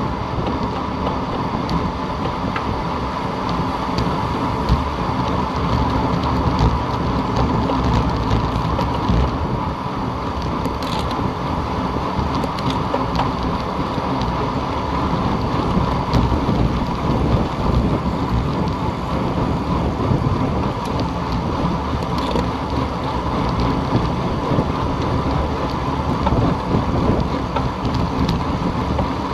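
Steady wind buffeting the microphone of a camera riding on a moving bicycle, a dense low rumble with road noise under it and a few faint ticks.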